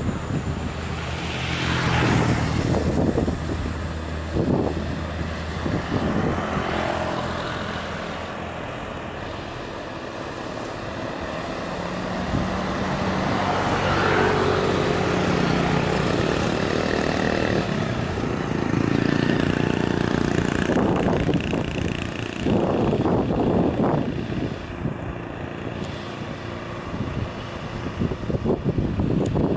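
Diesel engines of heavily loaded trucks working hard up a steep hill, the engine note rising and falling as loudness swells and fades several times.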